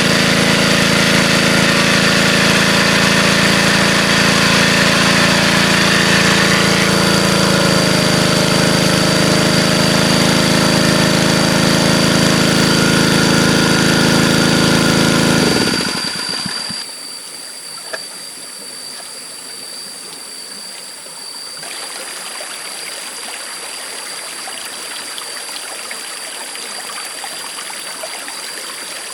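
An engine running steadily, its pitch shifting slightly about seven seconds in, then winding down and stopping about sixteen seconds in. The steady rush of flowing stream water is left behind.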